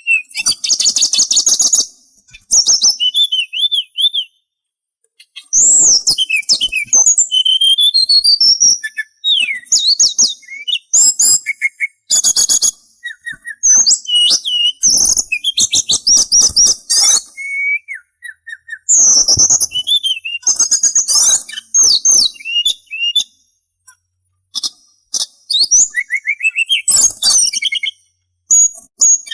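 A sulingan songbird singing loud phrases of clear whistles, sweeping glides and rapid trills and chirps, broken by short pauses.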